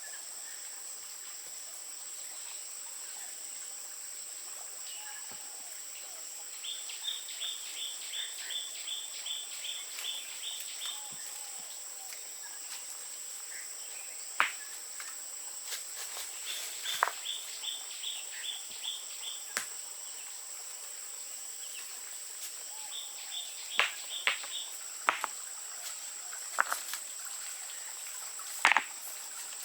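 Outdoor rural ambience: a steady high insect drone, with three runs of evenly spaced high chirps at about three a second. Several sharp knocks sound in the second half, the loudest near the end.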